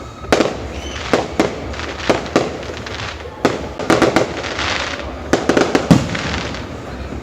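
Fireworks going off: a quick, irregular series of sharp bangs and cracks, with a crackling hiss between about four and five seconds in. The bangs come thickest near six seconds in, where one deep bang is the loudest.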